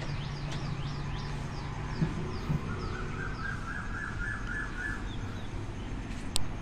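A bird calling a quick run of short, high, falling chirps, about three a second, over a low steady rumble of distant traffic. A lower, rapidly pulsing call joins a little before halfway and stops about a second before the end, and there is one sharp click near the end.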